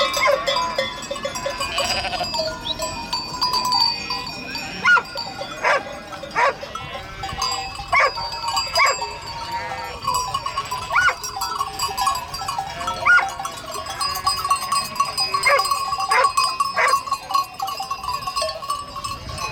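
Goats bleating again and again in short calls, with livestock bells ringing steadily under them.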